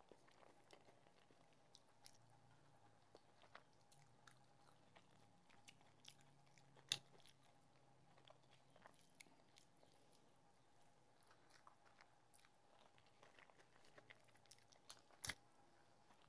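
Faint chewing and mouth clicks from someone eating rice mixed with curry by hand, with two sharper clicks, about seven seconds in and near the end, over a faint steady hum.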